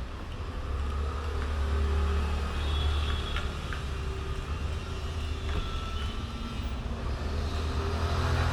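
Steady low background rumble with a few faint, sharp clicks.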